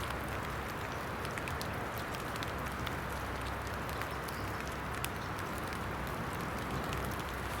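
Steady hiss of rain falling in the woods, with scattered sharp ticks throughout.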